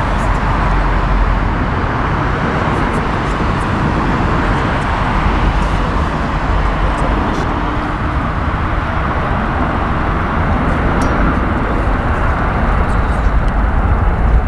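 Boeing 747-400F's four jet engines on landing approach, a steady deep rumble with a rushing hiss.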